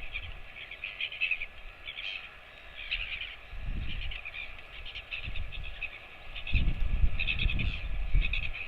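Birds chirping in quick repeated bursts of high calls, with low rumbling noise coming and going, strongest in the second half.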